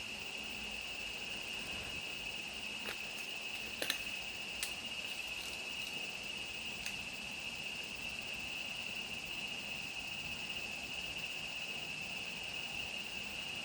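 Night insects, crickets or katydids, trilling in a steady high-pitched chorus on one unchanging note. A few short clicks come about three to seven seconds in.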